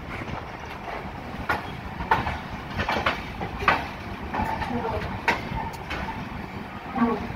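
Passenger train rolling slowly into a station, its wheels running over rail joints and points with irregular sharp clicks and knocks over a steady rumble. People's voices come from the platform.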